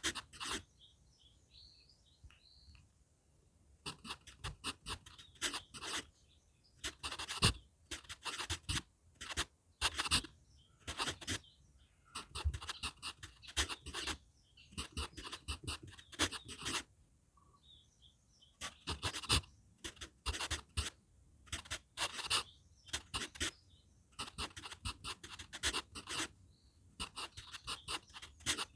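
HB pencil writing on manuscript paper: clusters of quick scratchy strokes with short pauses between words. Faint bird chirps sound in some of the pauses, one near the start and a few more later.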